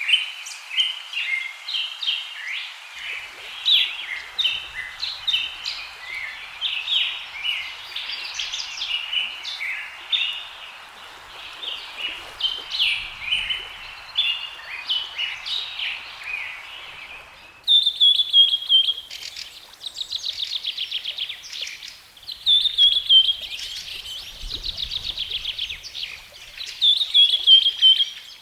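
Several birds chirping and calling together over a steady background hiss. About 18 seconds in, the sound changes suddenly to other birds giving repeated falling whistled notes and rapid trills.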